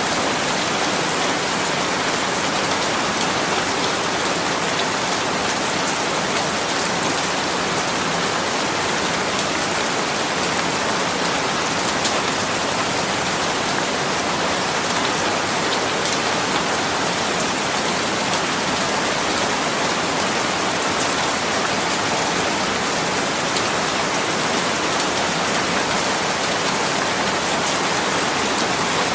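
Steady rain falling, an even hiss of many drops with fine pattering on a surface.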